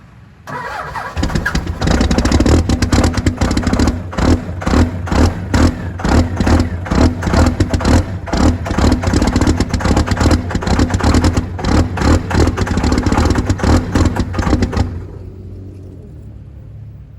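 24-valve Cummins inline-six diesel cold starting: it fires about a second in and runs loud with a heavy, rhythmic diesel clatter. About fifteen seconds in it drops to a much quieter steady rumble.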